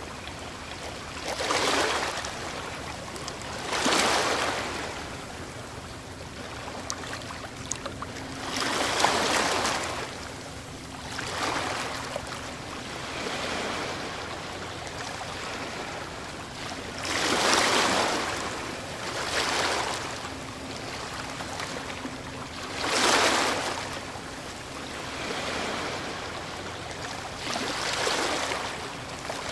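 Ocean waves breaking on a shore: a continuous wash of surf with a fresh wave crashing in every few seconds, each swelling and then falling away.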